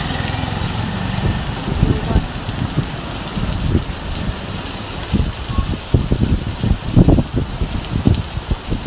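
Heavy rain falling, a steady hiss, with irregular low thumps close to the microphone, the strongest about seven seconds in.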